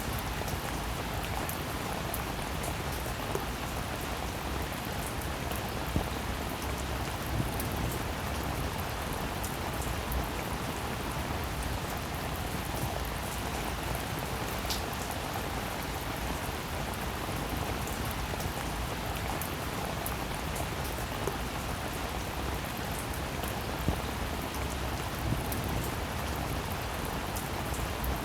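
Steady rain falling, an even hiss with the patter of drops and an occasional louder single drop hitting a surface.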